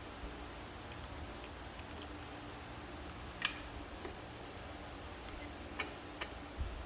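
Scattered light clicks and taps of steel transmission parts being handled and fitted, over a faint steady hum; the sharpest click comes about three and a half seconds in.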